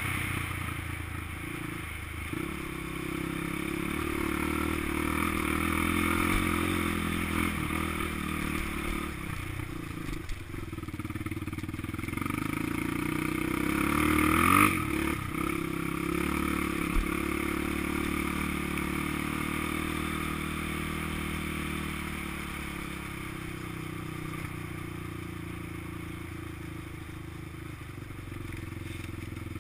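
Honda XR200 dirt bike's air-cooled single-cylinder four-stroke engine running while being ridden, speeding up and easing off with the trail; about halfway through it revs up sharply and drops back, the loudest moment.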